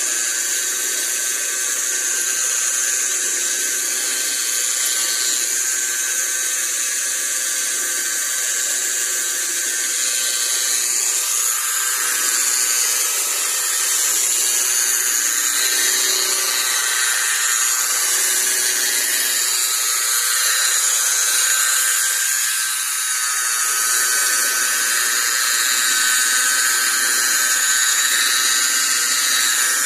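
Electric car polishing machine running steadily: a high motor whine with hiss, the pitch wavering slightly.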